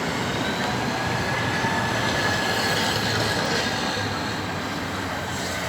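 Train running through the station: a steady rumble of wheels on the rails with a faint thin high squeal of the wheels.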